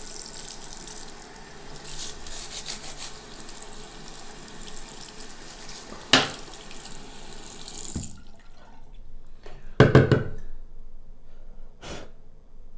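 Tap water running into a sink while a shower filter cartridge is scrubbed and rinsed under it, with a sharp knock about six seconds in. The water shuts off suddenly about two-thirds of the way through, then comes a louder thump and a smaller knock.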